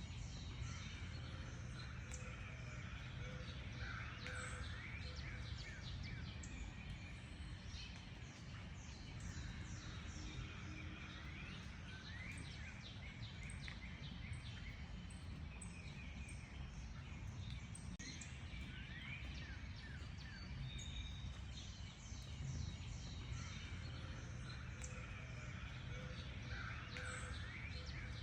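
Dawn-chorus-like mix of wild birds singing, with many quick chirps and rapid trills overlapping continuously and a few lower, louder calls now and then, over a steady low background rumble.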